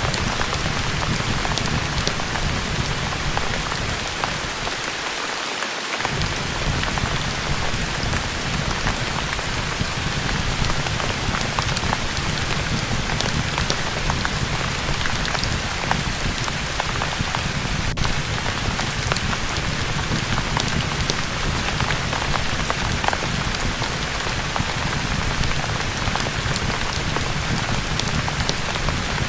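Steady rain falling, with scattered small pops and crackles of a fire in a fireplace mixed in; the low rumble drops out briefly about five seconds in.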